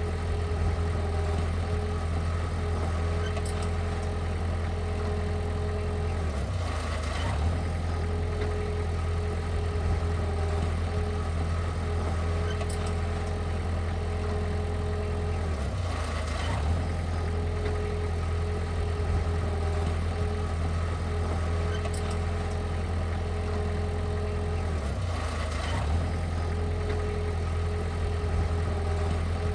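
Heavy construction machine's engine running steadily, with a brief change in its note about every nine seconds.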